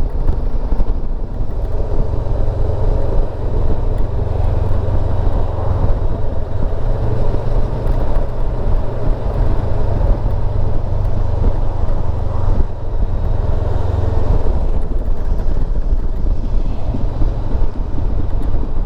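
Motorcycle engine running steadily at road speed, with a constant low rumble and road and wind rush.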